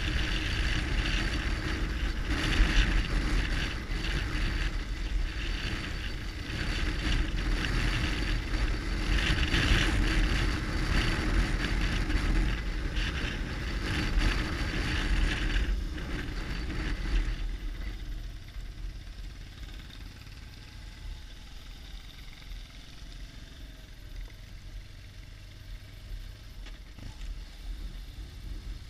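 BMW R1200GS Adventure boxer-twin motorcycle engine running on a rough dirt track, with riding noise picked up by a helmet-mounted camera. About two-thirds of the way through the sound drops markedly quieter and steadier.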